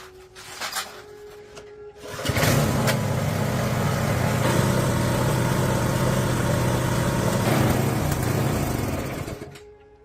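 A motor running steadily for about seven seconds, starting abruptly about two seconds in and dying away near the end.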